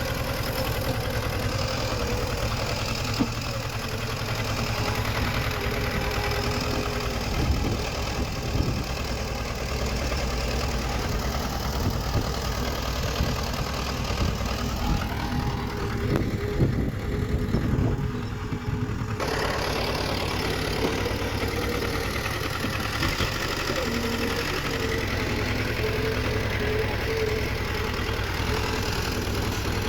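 Bulldozer diesel engine running steadily, with scattered short knocks and clanks in the middle stretch.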